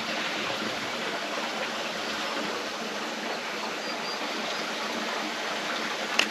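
Steady rushing of water from a small waterfall running low, with a short sharp click near the end.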